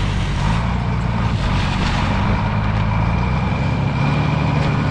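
A vehicle engine running steadily under heavy wind noise, its note rising slightly about three and a half seconds in.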